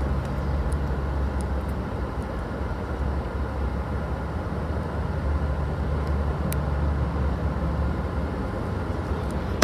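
Steady road and engine rumble heard from inside a moving car's cabin, with a few faint ticks.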